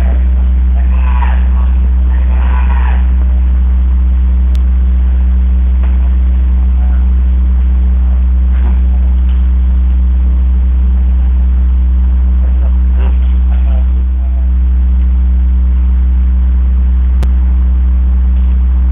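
A loud, steady low hum that does not change, with faint distant voices calling briefly a second or two in and again near the middle.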